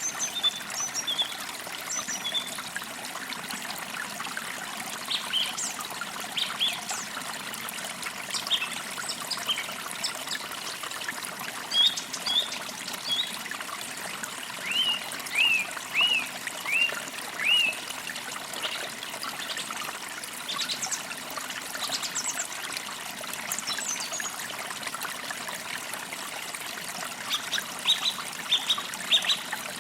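Forest creek trickling steadily, with songbirds chirping over it. Around the middle comes a run of five short chirps at about one a second, and near the end a quick cluster of chirps.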